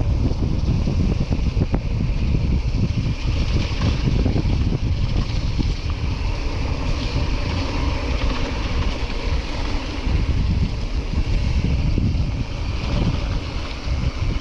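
Wind buffeting the microphone over the steady rumble of a mountain bike running down a rough trail, with many small rattles and knocks from the bike.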